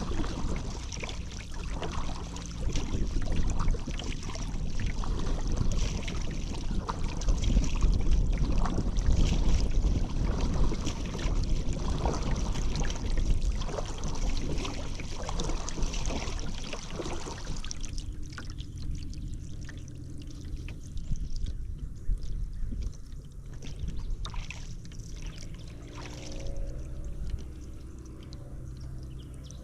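Paddle strokes dipping and splashing in river water, with water trickling off the blade. About two-thirds of the way through the splashing stops, leaving only occasional drips.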